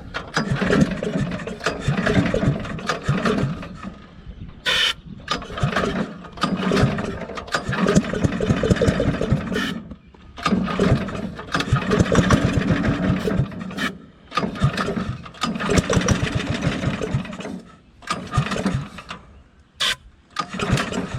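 Small gasoline engine of an old welding generator being pull-started over and over, cranking in several bursts of a few seconds without catching. It is not getting fuel: the carburetor is bone dry.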